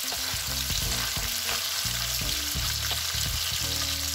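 Paneer cubes sizzling and crackling as they fry in oil and butter in a steel kadhai, with a spoon stirring them.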